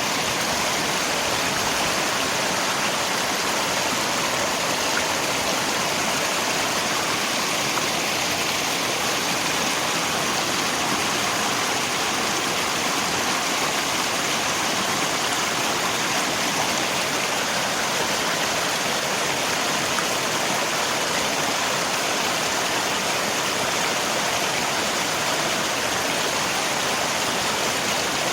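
Rain and a flowing river together: an even, unbroken rush of water.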